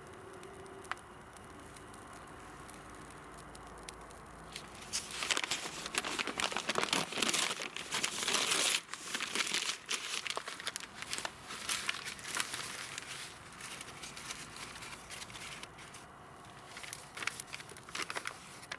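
Crinkling and rustling of something being handled, in dense irregular bursts that are loudest from about five to nine seconds in and then thin out, with a short flurry near the end.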